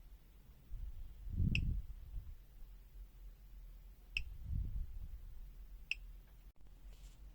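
Three sharp clicks about a second and a half apart to two and a half seconds apart, with dull low thumps of test gear being handled on the bench around the first two.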